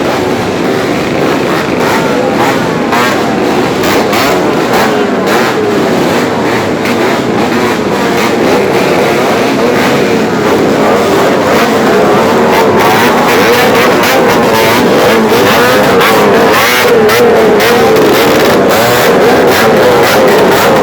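Many motorcycles with open, hollowed-out exhausts revving at once, mostly two-strokes, their engine notes rising and falling over each other in a continuous loud din. It grows a little louder about halfway through.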